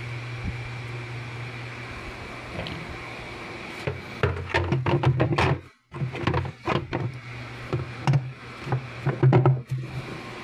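Washing machine running with a steady hum, then a run of irregular knocking and rattling from about four seconds in to near the end.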